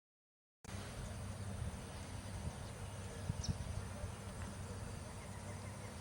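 Sound cuts in after half a second of silence: a steady low rumble under a hiss of outdoor ambience, with one short high chirp about three seconds in.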